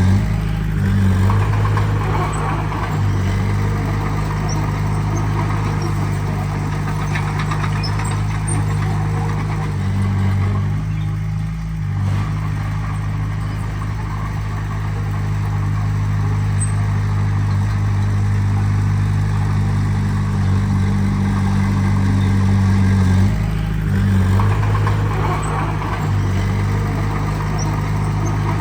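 Heavy diesel engine of earthmoving machinery running steadily, its pitch shifting a few times.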